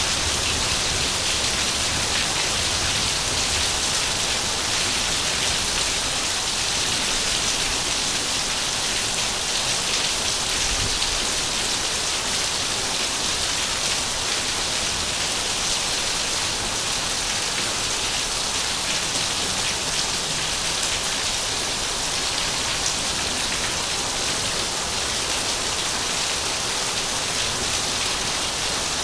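Heavy rain falling steadily, a dense even hiss of drops hitting surfaces without letting up.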